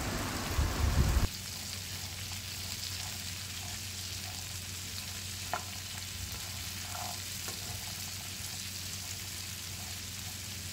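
Boiled black chickpeas with chopped onion, tomato and green chilli sizzling steadily in hot oil in a non-stick frying pan while being stirred with a spatula, with a few light scrapes of the spatula against the pan. A louder low rumble opens the sound and cuts off abruptly just over a second in.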